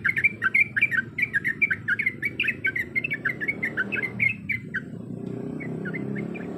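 Yellow-vented bulbul (trucuk) singing a rapid, bubbling run of short chattering notes, which breaks off about three-quarters of the way in and resumes more faintly near the end.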